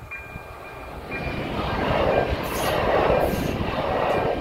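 Regional electric train passing over a level crossing: its rumble and wheel-on-rail noise swell from about a second in, with short hissing bursts from the wheels. The crossing's electronic warning bell keeps ringing steadily underneath.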